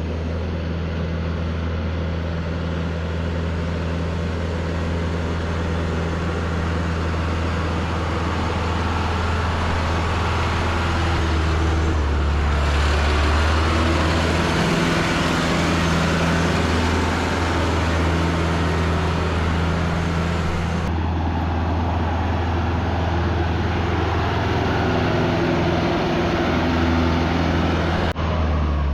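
Tractor engine running steadily under load, a deep hum with hiss above it that changes character in places.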